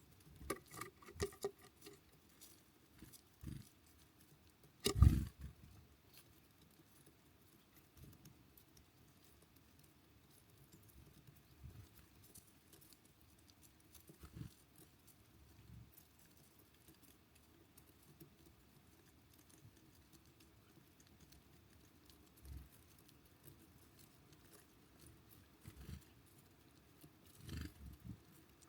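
Birds at a feeder: scattered knocks and taps as they land and peck, the loudest about five seconds in, with a few short chirps near the start.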